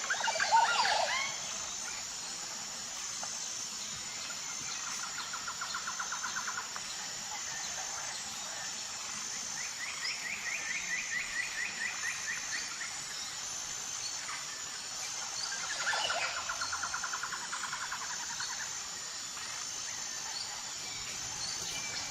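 Birds calling: a loud sweeping call about half a second in, then three runs of rapid trills, over a steady high-pitched insect drone.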